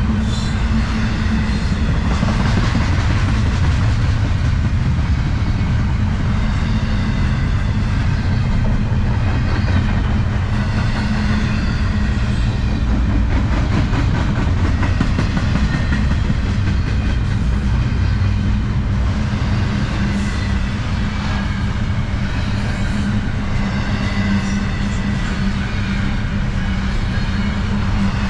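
Double-stack intermodal well cars of a freight train rolling past close by: a loud, steady rumble of steel wheels running on the rails, with a constant low hum underneath.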